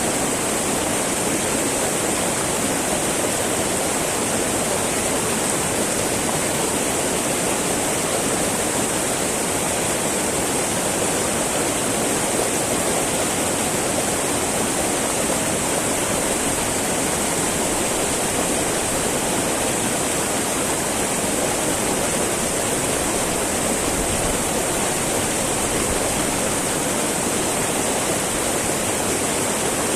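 Small mountain river babbling and rushing steadily over rocks, a constant, even flow of water.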